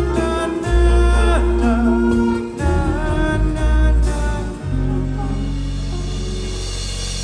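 Live rock band with layered vocal harmonies over bass and guitar. About four and a half seconds in, the band settles onto one long held chord.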